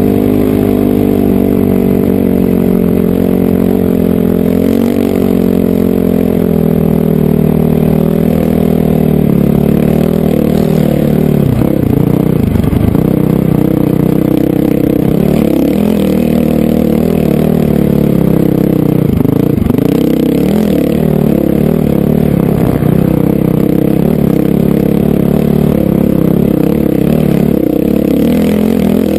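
Honda CRF450R dirt bike's four-stroke single-cylinder engine running under way, its revs rising and falling repeatedly.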